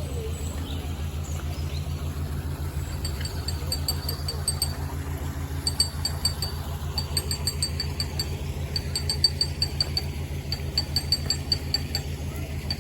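Canal boat engine running steadily with an even low chug. From about three seconds in, short runs of rapid, high-pitched ticks repeat over it.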